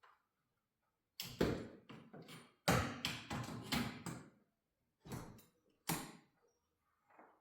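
Several clusters of sharp knocks and rattles from garage door hardware being worked on.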